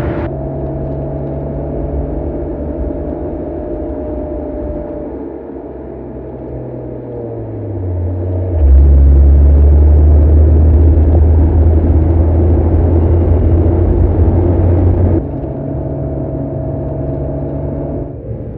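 Mercedes-AMG CLE 53's 3.0-litre turbocharged inline-six running with a steady drone, its pitch sagging about seven seconds in. A much louder, deeper drone comes in suddenly about halfway through and cuts off just as suddenly a few seconds before the end.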